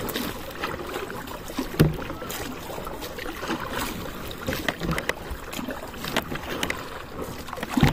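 A kayak being paddled: water sloshing and splashing around the hull, with irregular sharp knocks against the boat.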